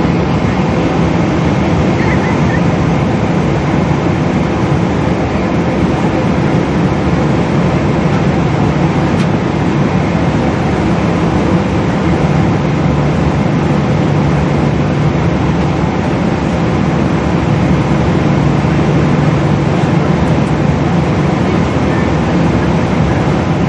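Boeing 777 cabin noise from a window seat: a steady, loud jet-engine drone with a low hum that steps slightly lower in pitch about halfway through.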